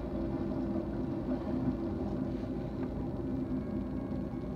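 BNSF intermodal freight train rolling past: a steady low rumble of wheels on rail.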